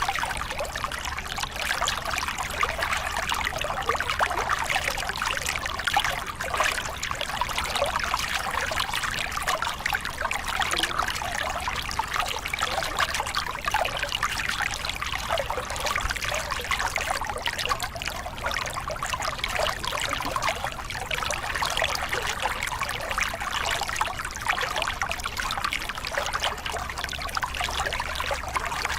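Small river cascade: water pouring and splashing over rocks in a steady, even rush.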